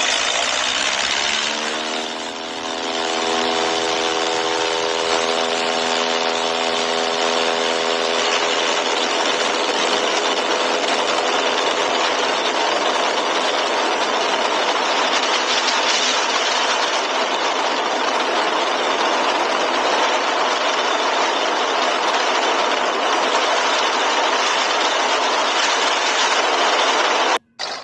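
Seaplane's propeller engine running at takeoff power: a loud, steady drone. A pitched tone rises over the first couple of seconds and holds until about eight seconds in.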